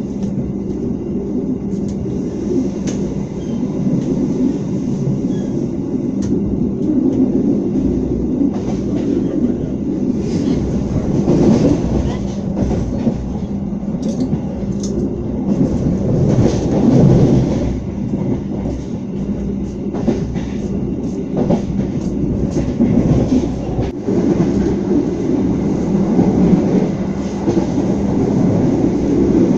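Steady wheel-and-rail rumble of a moving passenger train, heard from inside an INKA-built premium economy carriage, with scattered clicks over the rails. It gets a little louder near the end.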